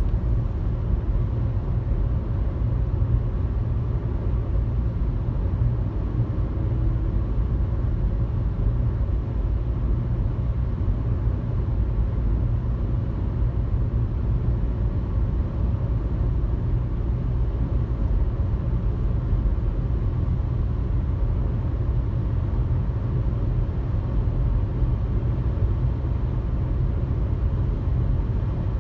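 Car driving at highway speed: a steady low rumble of engine and road noise, unchanging throughout.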